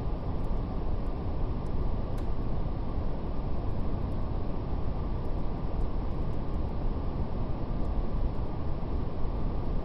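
Steady brown noise, a deep, even rush with no change in level, with faint, scattered crackles of a fire over it.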